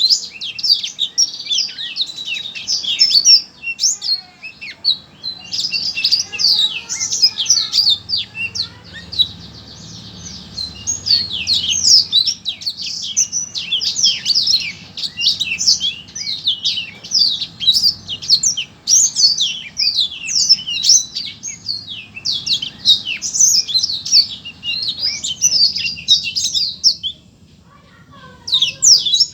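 A songbird singing a fast, almost unbroken stream of high chirps and trills, pausing briefly near the end.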